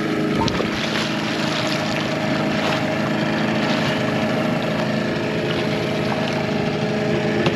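Boat motor running steadily, its even engine tone under a wash of water and wind noise.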